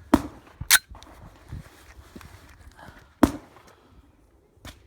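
Three short, sharp cracks: one right at the start, a second under a second later, and a third about three seconds in, with a faint click near the end.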